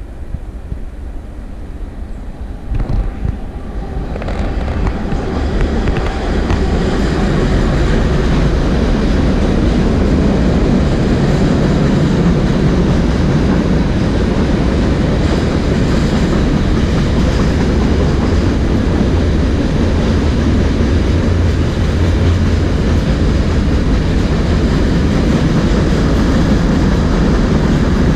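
A train passing close by: its rumble builds over the first few seconds, then holds loud and steady.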